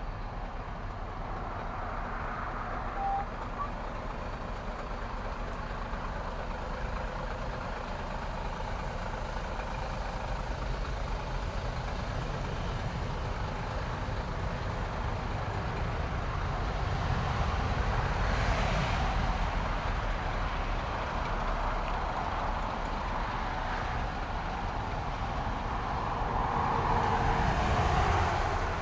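Opel Omega B 2.5 DTI's common-rail inline-six diesel running under way, heard inside the cabin as a deep engine drone with tyre and wind noise, slowly getting louder as the car gathers speed. There is a brief click about three seconds in.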